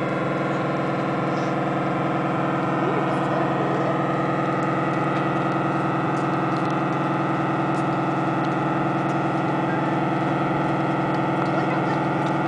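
Remote-control boat's motor running steadily, a constant buzzing whine that holds one pitch without throttle changes.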